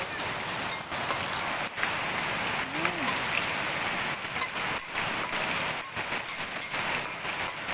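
Dried anchovies frying in hot oil in a wok: a steady, crackling sizzle.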